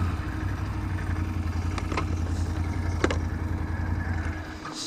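ATV engine running at low revs, with a few sharp clicks or knocks. The engine note cuts out near the end.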